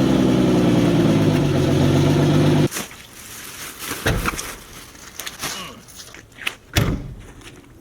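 Jeep Wrangler engine running at a steady idle just after starting, which stops abruptly a little over two and a half seconds in. Two dull thumps follow.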